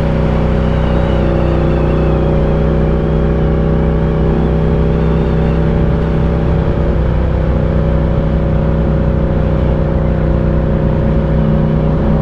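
Ducati Diavel 1260's 1262 cc V-twin engine running at a steady, even pitch while the motorcycle is ridden.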